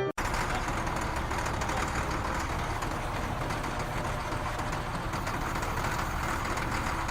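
A steady low rumble with a hiss over it, at an even level. It starts abruptly as piano music cuts off at the very beginning.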